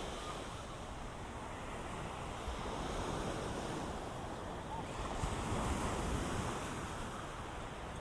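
Ocean waves washing onto the beach, a steady rush that swells about five seconds in, with some wind on the microphone.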